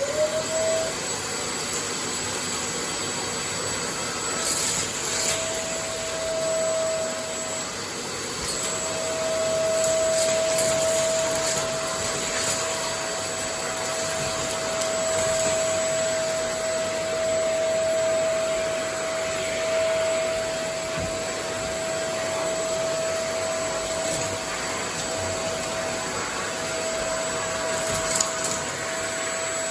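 Vacuum cleaner switched on, its motor whine rising in pitch in the first second as it spins up, then running steadily with a constant whine over a loud rush of air. The whine briefly dips about eight seconds in, and a few light scraping sounds come and go.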